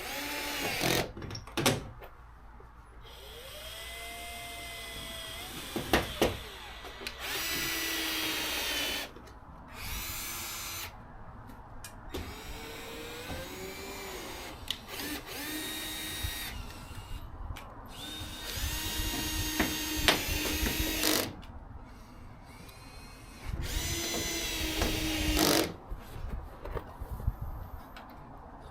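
Power drill running in several separate bursts of a few seconds each, with a whining motor tone, typical of fastening work on a wall.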